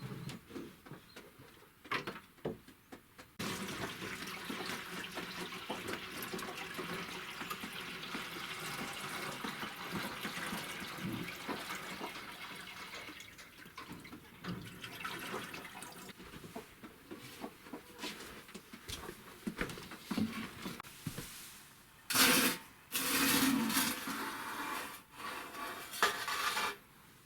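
Water running or being poured, starting abruptly about three seconds in as a steady rush that slowly fades away, followed near the end by a few louder splashing bursts.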